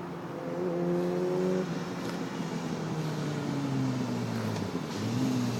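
Motorcycle engine revving. Its pitch climbs about half a second in and drops sharply at around a second and a half. It then slides down steadily for a few seconds and rises again near the end.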